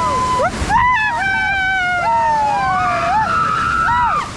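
Several rafters screaming together, long wavering cries rising and falling over one another as the raft drops through a rapid, with rushing white water beneath.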